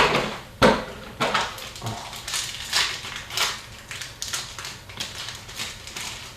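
Foil wrappers of Upper Deck hockey card packs crinkling and tearing as the packs are opened and the cards handled: a string of irregular sharp crackles, loudest at the start and thinning out toward the end.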